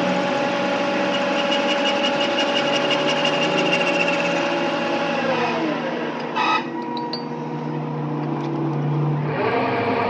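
A workshop machine's motor running steadily, then winding down in pitch about halfway through, a short noisy burst, and spinning back up to speed near the end.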